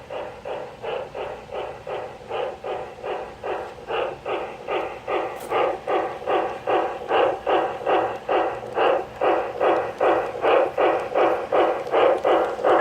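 G-scale model steam locomotive chuffing steadily, about three chuffs a second, growing louder as it comes closer.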